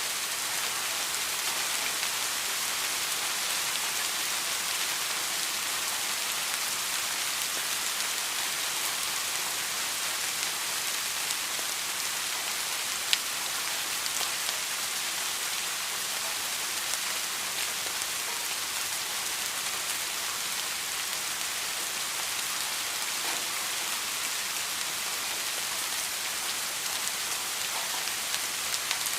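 Steady rain falling, a dense even hiss with scattered drop ticks and one sharper drop about halfway through.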